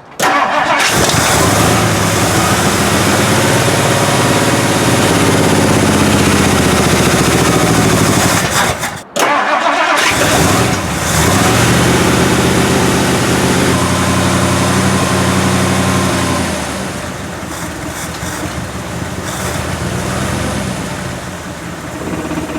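1958 Ford Fairlane 500's Interceptor V8 firing up after five months unused, running on fresh gas poured into the carburetor, its pitch rising as it revs. It drops out for about a second near the nine-second mark, runs again, and settles to a quieter idle about seventeen seconds in; the owner judges the accelerator pump dry and fuel not reaching the carburetor bowl.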